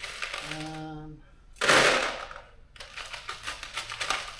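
Steel bolts clattering as they are counted and dropped into the compartments of a bolt kit, with rapid metallic clicks and a louder rattling pour nearly two seconds in. A brief hummed voice note comes just before the pour.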